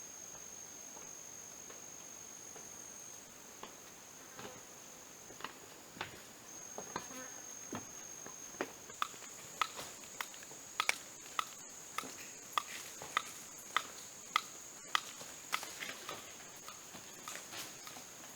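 Forest insects, crickets or similar, holding a steady high-pitched drone. Over it come sharp clicks or taps, sparse at first and then about two a second through the second half.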